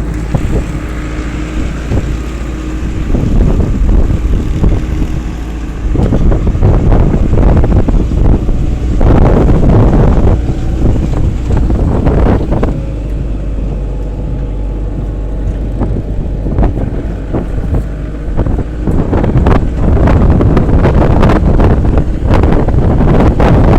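A moving vehicle rumbling along a road, with wind buffeting the microphone in uneven gusts.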